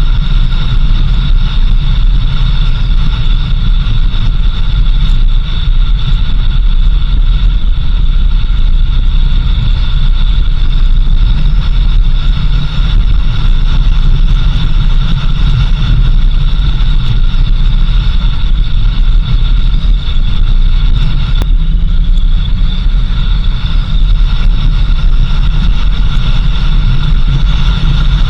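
A vehicle driving steadily, with a loud, unchanging rumble of engine and road noise.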